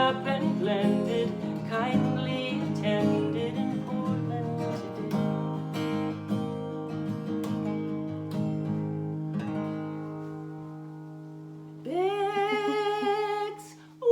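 Acoustic guitar playing the closing bars of a folk song, strummed and picked chords, then a final chord left ringing and slowly fading. Near the end a single voice sounds briefly.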